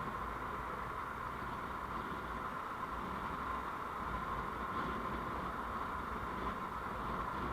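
Steady road noise of a moving vehicle picked up by an on-board recorder: an even hiss over a low rumble, with no distinct events.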